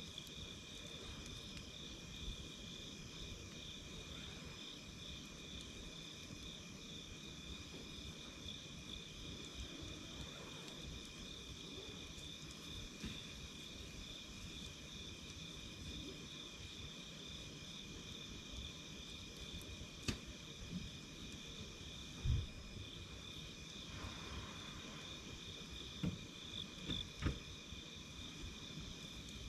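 A steady chorus of night insects, crickets trilling at two high pitches, over the low sound of a wood campfire. A few sharp crackles and pops come from the fire in the last third, the loudest about two-thirds of the way in.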